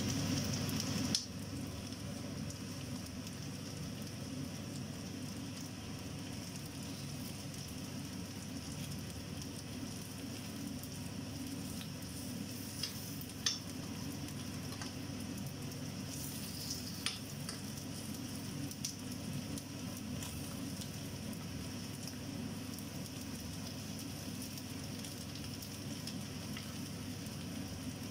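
Pieces of textured soy protein frying in a nonstick pan, a steady sizzle as they are stirred. A few sharp clicks of the metal spoon against the pan stand out, one about a second in and more around the middle.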